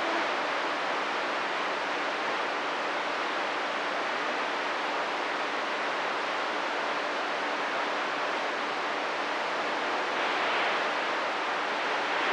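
CB radio receiver hiss: steady open-band static between transmissions, with a faint low hum under it.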